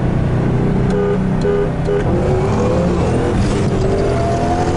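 High-powered car engine under hard acceleration, its pitch climbing steadily from about two seconds in.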